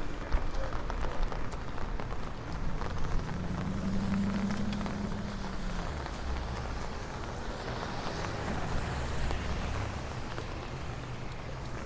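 Light rain pattering and dripping, with cars passing on a wet street; an engine hum rises and fades about three to six seconds in.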